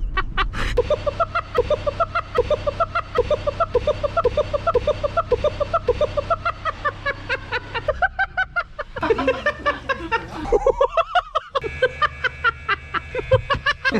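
A person laughing in a long, rapid run of rhythmic, pitched hoots, about three to four a second: a laugh likened to an orangutan's. The laughter breaks off briefly about two-thirds of the way through, then climbs in pitch and carries on. A steady low hum runs underneath.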